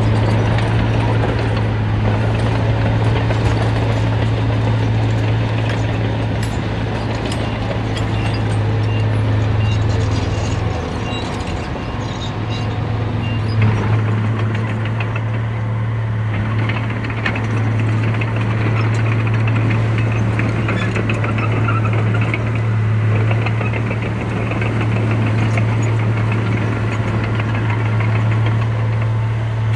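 Heavy diesel engine of earthmoving machinery running steadily under load, with a constant clatter that grows busier about halfway through.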